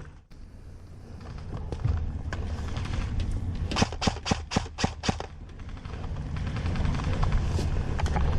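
Airsoft gun firing a rapid string of about seven shots, around five a second, a little under halfway through. A few single shots sound around it over a steady low rumble.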